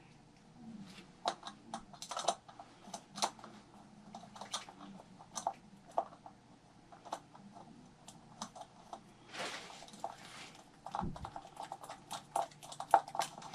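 Irregular small clicks and taps of hands working on a hobby RC truck chassis, handling small parts and fitting a nut, with a short rustle about nine seconds in.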